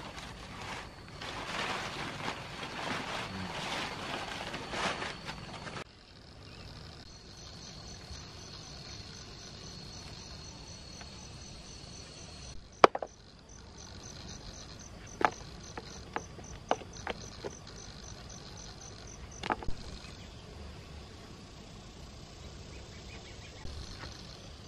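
Rustling, handling noise for the first several seconds, then a sudden change to crickets or other insects chirping steadily in a high, fast pulsing trill, with a handful of sharp knocks in the middle.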